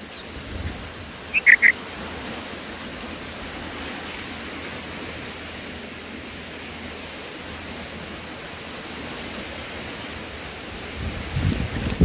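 Steady outdoor hiss with three quick, high bird chirps about a second and a half in. Low rumbling thumps come near the end.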